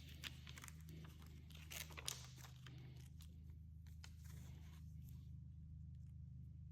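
Faint crinkling and rustling of plastic window tint film being handled and trimmed, with a few sharp clicks, the loudest about two seconds in. It dies away after about five seconds.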